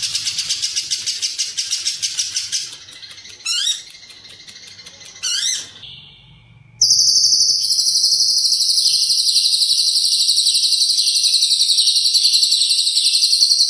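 Lovebird singing its rapid chattering 'ngekek' trill, with cililin-style phrases worked into the song. A burst of fast chatter opens it, then come two short rising calls and a brief pause. From about seven seconds in, one long, unbroken chattering trill runs on.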